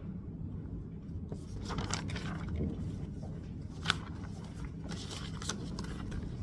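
Low steady background rumble with soft rustling and scraping of objects being handled, and one sharp click about four seconds in.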